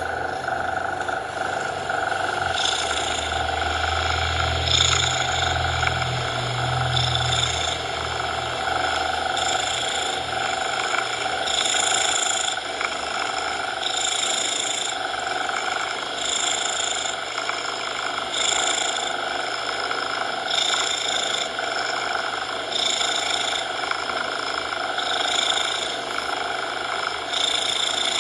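Cat purring in a steady rhythm, a brighter breath about every two seconds, over a constant hiss of coloured noise. The low rumble of the purr fades out about eight seconds in.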